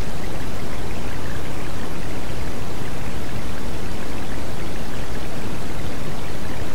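Rain falling steadily, a dense, even hiss of drops that does not change.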